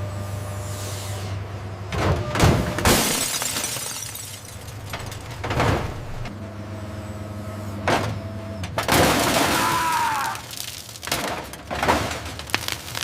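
Factory workshop noise in a large hall: a steady low machine hum broken by several loud metallic crashes and bursts of hiss, with a short squeal about ten seconds in.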